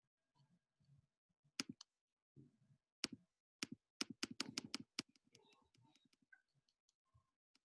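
Faint clicking and tapping of computer keys, with a quick run of clicks about four seconds in, against near silence.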